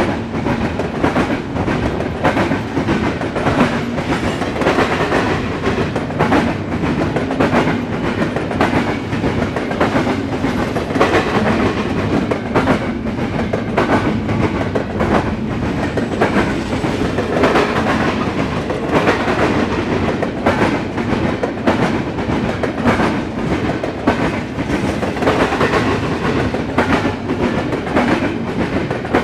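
Long freight train of intermodal and autorack cars rolling steadily past, its steel wheels rumbling on the rails with frequent irregular knocks.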